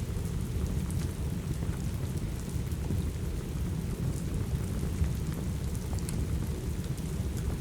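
Steady rainfall with a deep, continuous rumble, and a few faint crackles from a wood fire about halfway through.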